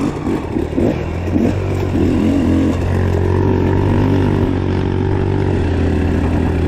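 Dirt bike engine running on a trail ride, its pitch rising and falling with the throttle for the first few seconds, then settling into a steadier note.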